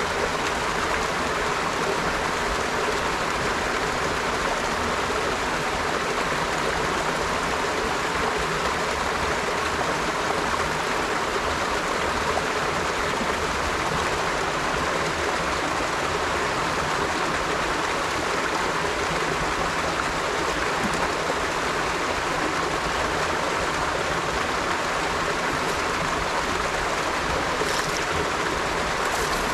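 River water flowing over stones, a steady, even rushing.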